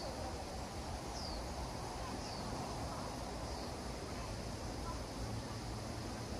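A bird calling short, high notes that fall in pitch, about one a second over the first few seconds, over a steady outdoor hiss and low rumble.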